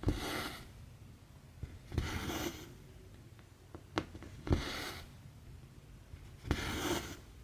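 Needle and embroidery thread being pulled through 11-count stamped cross-stitch fabric: four short rasping pulls about two seconds apart, each starting with a light click.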